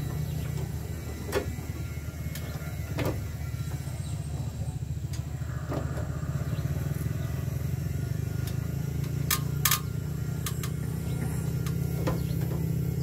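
Sharp air conditioner unit running with a steady low hum, with a few sharp clicks or knocks, two of them close together about two-thirds of the way in.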